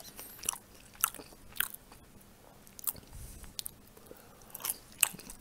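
A person chewing fried pelmeni with the mouth open, a string of irregular wet smacking clicks (чавканье) as the dumplings are bitten and chewed.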